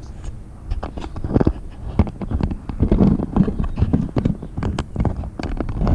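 Irregular knocking and clattering of hard engine parts and tools being handled and set down on a workbench during the engine teardown.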